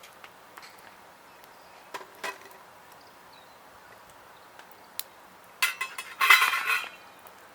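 Cutlery and metal cookware clinking: a few separate light clicks, then a brief burst of clattering about six seconds in.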